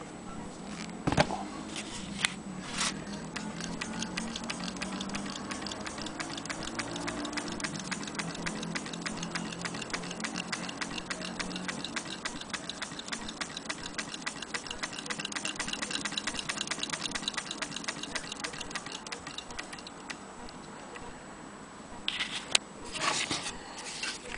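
Antique Willcox & Gibbs chain-stitch sewing machine running, its mechanism making a fast, even ticking over a low hum for about fifteen seconds. A few sharp knocks come before it starts and after it stops.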